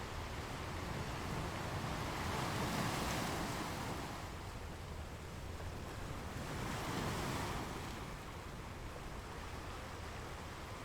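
Ocean waves washing ashore, two waves swelling and breaking about three to four seconds apart, over a steady rush of surf.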